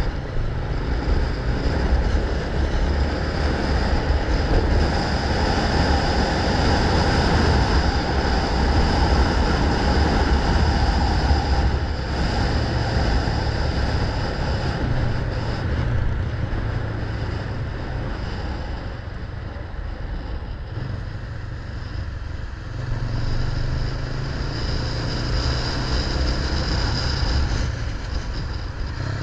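Motor vehicle running on a street: a steady engine hum with road noise, loudest in the first half, dipping and then picking up again about two thirds of the way in.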